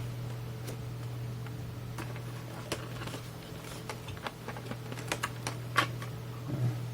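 Scattered light clicks and taps from handling a circuit board and small tools on a workbench, over a steady low hum.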